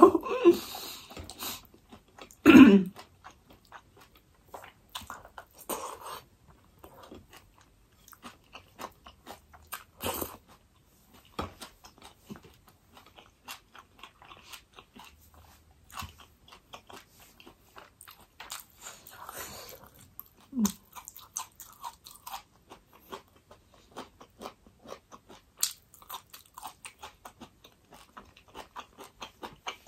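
A person chewing food close to the microphone, with many small irregular crunches and mouth clicks. A brief loud vocal sound comes about two and a half seconds in.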